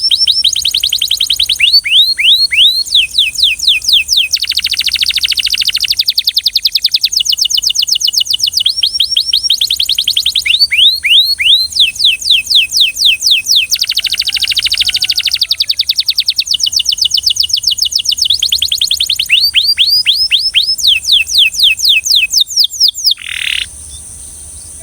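Belgian canary singing in rapid trills of repeated down-slurred notes, changing from one rolled phrase to the next. The song stops near the end.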